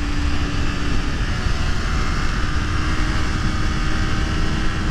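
Honda CBR250RR motorcycle engine running steadily at cruising speed, under a constant rush of wind and road noise.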